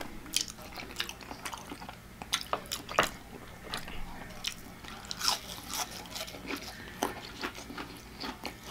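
A person chewing a mouthful of creamy cheese pasta close to the microphone: irregular wet mouth clicks and smacks, with a few sharper crunchy snaps.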